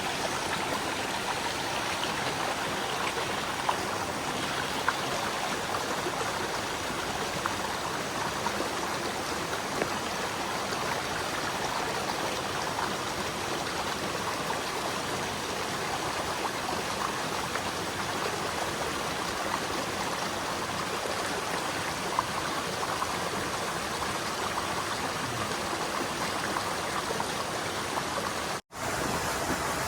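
Steady rush of water flowing over rocks in a mountain stream, broken once by a momentary gap near the end.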